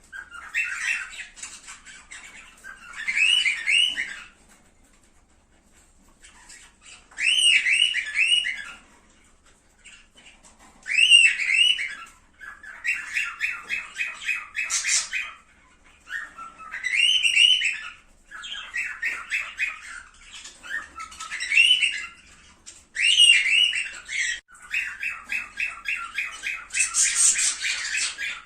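Cockatiels calling: short bursts of warbling, whistled chirps repeated every few seconds, with longer runs of fast chattering notes in the middle and near the end.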